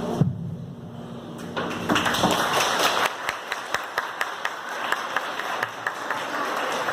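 Audience clapping after the song stops near the start. The clapping begins about a second and a half in, with many separate sharp claps standing out.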